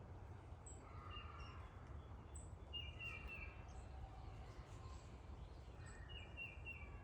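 Wild songbirds chirping and singing faintly over a low steady rumble: scattered short high chirps, and twice a quick run of three or four notes.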